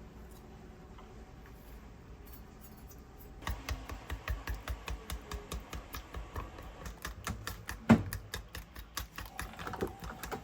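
Low room tone, then from about three and a half seconds in a quick run of sharp taps, about four or five a second, with one louder knock near eight seconds.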